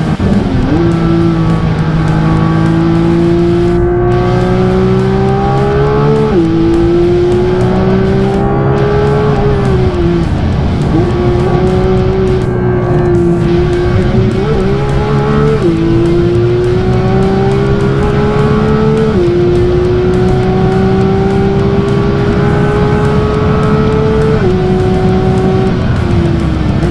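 Porsche 911 GT3 (992) 4.0-litre naturally aspirated flat-six heard from inside the cabin on track, its pitch climbing steadily under full throttle and dropping sharply at each quick PDK upshift. Around the middle the revs fall away as the car slows for a corner, then it pulls hard again through several more upshifts.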